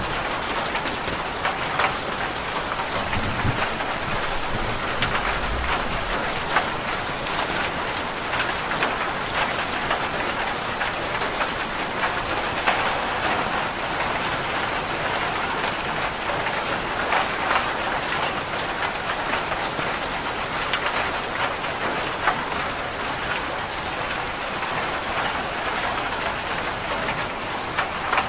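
Steady heavy rain falling on a roof, a dense hiss speckled with the clicks of individual drops. A low rumble of distant thunder comes a few seconds in.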